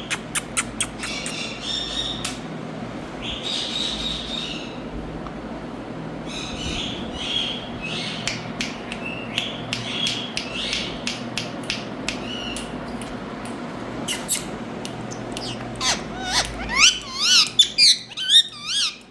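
Green ringneck parrot calling: scattered clicks and short squawks, then near the end a fast run of wavering screeches that rise and fall in pitch, the loudest part. A steady low background noise runs underneath.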